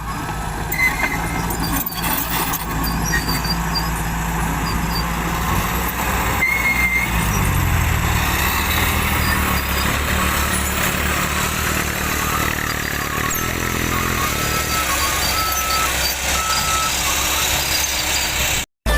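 Hino Dutro dump truck's diesel engine running, its pitch shifting about seven seconds in as it revs. A run of short, evenly spaced beeps sounds in the second half, and the sound cuts off abruptly near the end.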